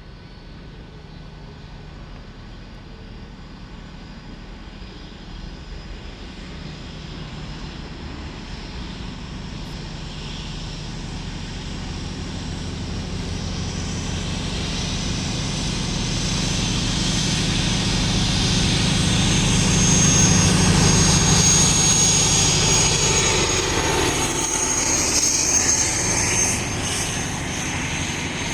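A train approaching along the line, its engine hum and a high whine growing steadily louder for about twenty seconds, loudest a little past the middle, then easing slightly as it passes.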